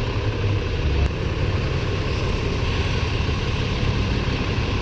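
A vehicle engine idling steadily, an even low rumble, with a faint click about a second in.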